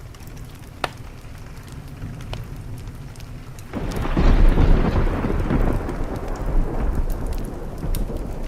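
Thunder breaks in suddenly about four seconds in, a deep rumble that peaks and slowly fades, over steady rain. A wood fire crackles with a few sharp pops, one clear pop near the start.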